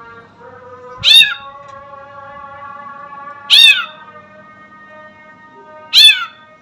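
Sooty-headed bulbul mimicking a cat's meow: three short, high meow-like calls, about two and a half seconds apart.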